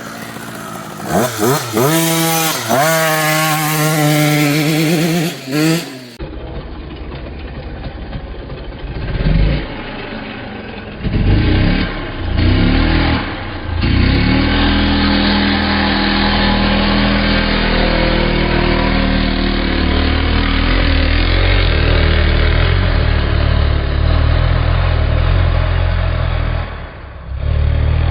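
Dirt bike engine revving, its pitch rising and falling several times in quick succession. About six seconds in the sound cuts to another recording of an engine running under throttle, with a few short bursts followed by a long steady pull.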